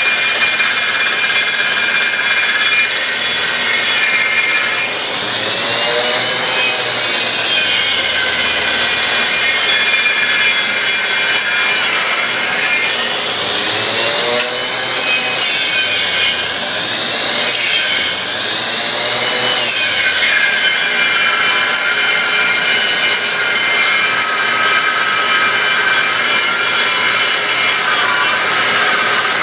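A small grinder spinning a saw blade that cuts a turning wood blank on a homemade copy lathe, with a steady machine whine. Several times between about five and twenty seconds in, the pitch sweeps up and back down as the blade works along the blank.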